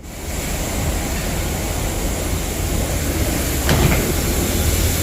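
Steady rushing air and low hum inside the cabin of a Boeing 737-800 waiting at the gate, beginning abruptly, with a single knock a little before four seconds in.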